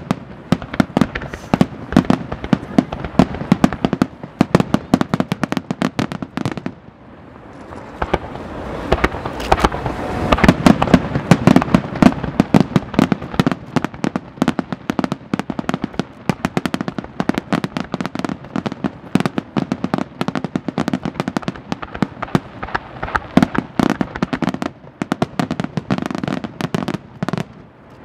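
Fireworks display: a rapid barrage of shells bursting one after another, many bangs a second, easing briefly about seven seconds in before building up again.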